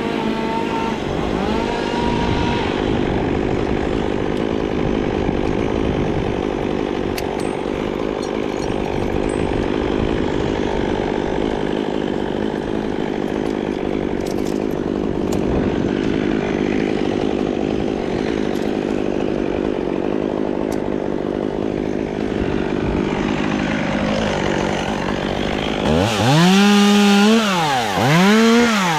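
Chainsaw cutting through wood under load, then revved twice near the end, its pitch rising and falling each time.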